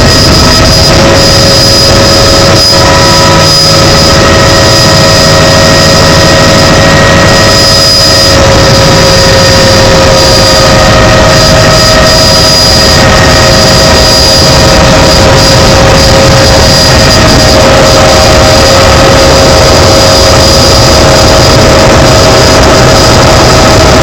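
Helicopter in flight heard from inside the cabin: loud, steady engine and rotor noise with a constant high whine over a rumble.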